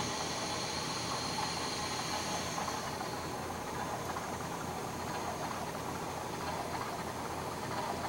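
HO scale Shay model locomotive's LokSound 5 sound decoder playing a steady steam hiss through its small speaker. A higher, thinner hiss in it fades out about three seconds in.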